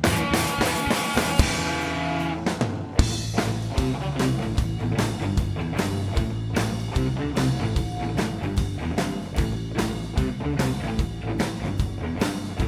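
Rock band playing live with electric guitars, bass and drum kit: a hit chord rings out for about two and a half seconds, then the full band comes in about three seconds in with a steady driving drum beat.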